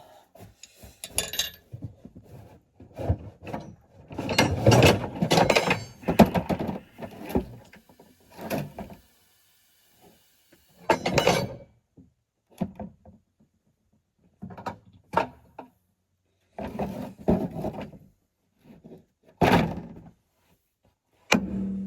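Metal wrenches and sockets clanking and rattling as they are handled and sorted through, in irregular bursts with short pauses; the busiest clatter comes about four to seven seconds in.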